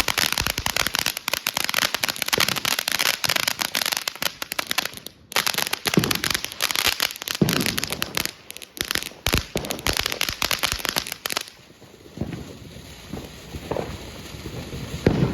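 TNT consumer fountain firework spraying with dense crackling and hissing from its flying-fish effects, with a brief dip about five seconds in. The fountain stops abruptly about eleven and a half seconds in, leaving only faint low sounds.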